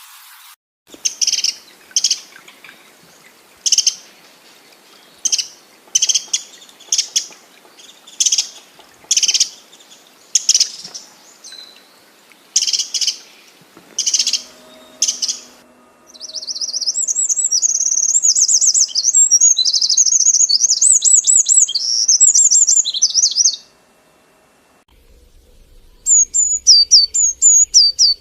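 Birds calling: first a series of short, high, sharp chirps repeated about once a second, then after a sudden change a fast, continuous chattering song, and near the end a run of quick whistled notes that each fall in pitch.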